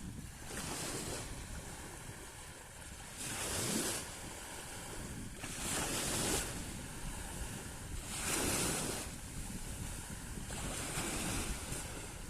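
Black Sea waves breaking on the shore, a surge of surf about every two and a half seconds. Wind rumbles on the microphone underneath.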